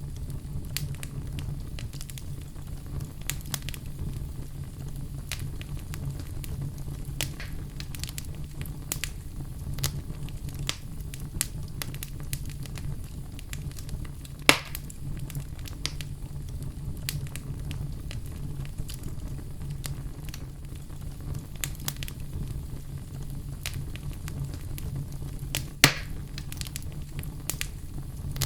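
Wood fire in a fireplace crackling, with frequent small snaps and two louder pops, one about halfway through and one near the end, over a low steady rumble.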